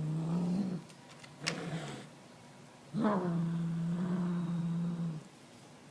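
Domestic cat giving long, low, steady growls over its toy bird: one growl ends just under a second in, and another runs for about two seconds from about three seconds in. A short click and rustle come between them.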